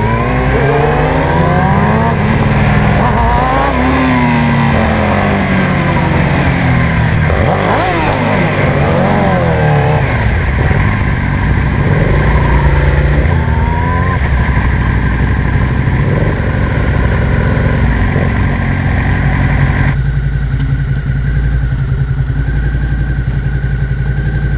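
Sport motorcycle engine with an aftermarket Two Brothers exhaust under way, the revs rising and falling repeatedly through gear changes. It runs more steadily from about halfway, and settles to a steady low note for the last few seconds.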